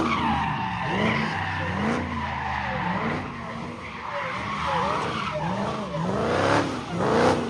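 A car spinning donuts, its tires screeching over a steady haze while the engine revs rise and fall over and over, about once every second or less.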